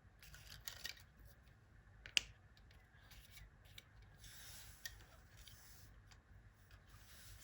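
Faint scratching and rustling with scattered light clicks, one sharp click about two seconds in.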